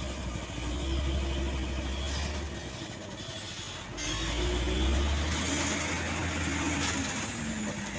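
Heavy truck's diesel engine running under power, easing off briefly and then growing louder about four seconds in.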